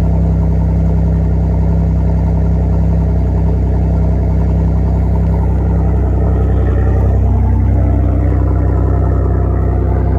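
Chevrolet Monte Carlo with a muffler delete running, a steady, loud exhaust drone with a deep low end; the engine note shifts slightly about seven seconds in.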